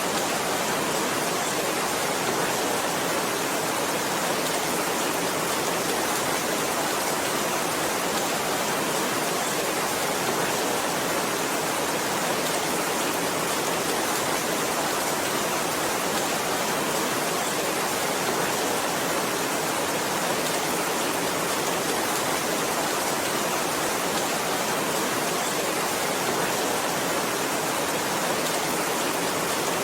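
Heavy rain as a steady, even hiss with no breaks, no single drops standing out and no thunder.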